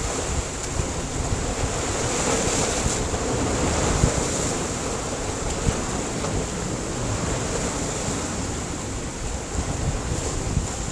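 Sea surf washing against a rocky shore in a continuous hiss, swelling a little and easing off, with wind buffeting the microphone in low thumps.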